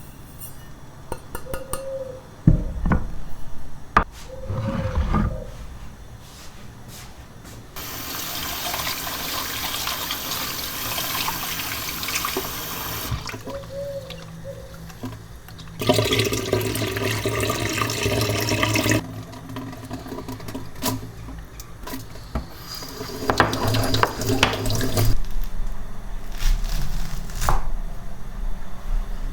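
A kitchen tap running in three stretches of a few seconds each, the longest about five seconds, with clicks and knocks of handling between them.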